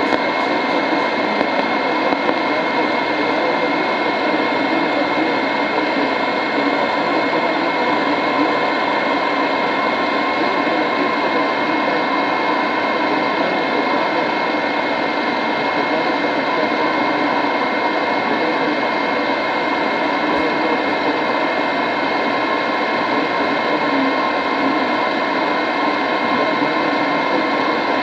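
A radio receiver putting out a steady, unbroken rush of static with a constant high tone running through it. This is the unexplained radio anomaly being investigated.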